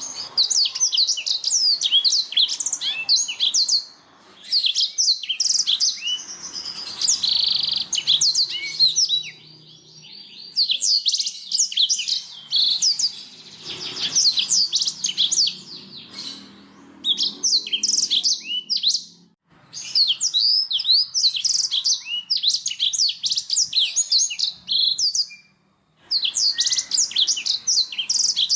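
Domestic canary singing long phrases of rapid, high, repeated notes and trills, broken by a few short pauses.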